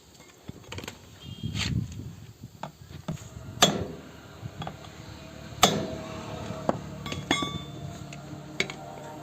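Metal tools knocking and clinking on a tractor wheel during tyre work, with two hard, ringing strikes about two seconds apart and lighter clicks and taps around them.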